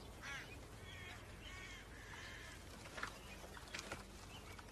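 Birds calling, a few short calls one after another in the first two seconds, over a faint steady background. Two brief sharp sounds follow, about three and four seconds in.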